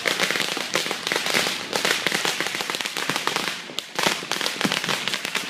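Firecrackers going off in a dense, rapid run of crackling pops, easing briefly about three and a half seconds in before picking up again.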